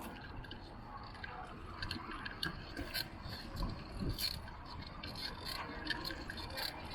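A bicycle being ridden: irregular light ticks and rattles from the bike, over a steady low rumble of wind and road.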